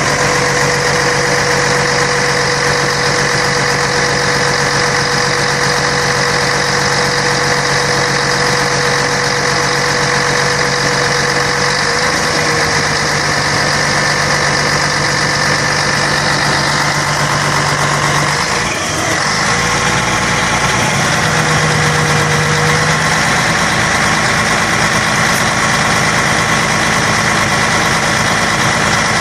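Scania K113 bus's 11-litre six-cylinder diesel running with a steady drone, with a brief dip about two-thirds of the way through.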